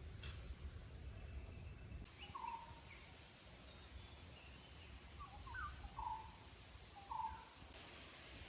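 Forest ambience: a steady high-pitched insect drone throughout, with a bird calling in short chirps about four or five times from around two seconds in.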